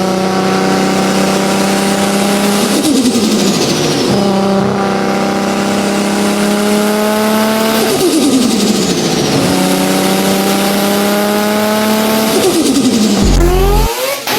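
A turbocharged car accelerating hard through the gears. Its engine note climbs steadily in three pulls, and each upshift brings a quick falling 'stututu' turbo flutter as the throttle snaps shut. The sound cuts to a different engine clip near the end.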